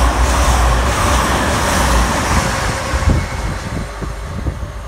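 East Midlands Railway Class 222 Meridian diesel multiple unit passing through at high speed, a loud rush of wheel and air noise over a deep rumble. It fades after about three seconds, with a few sharp knocks as it goes.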